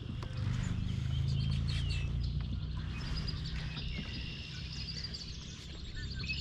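Several birds chirping and singing, over a steady low rumble that is strongest in the first few seconds.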